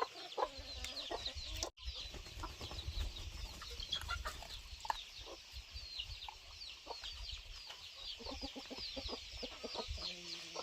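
Chickens clucking, with a dense chorus of short, high, falling peeps over a low rumble; the sound briefly cuts out about two seconds in.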